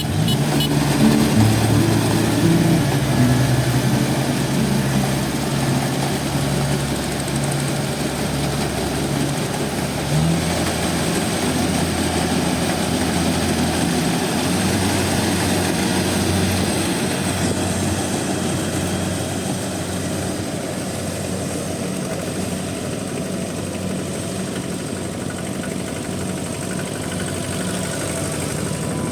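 Rice combine harvester running steadily: a continuous engine and machinery drone.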